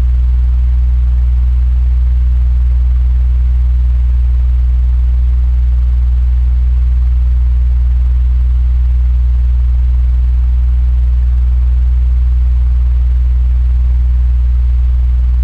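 Electric fan running steadily: a strong, even low hum with a faint airy hiss above it.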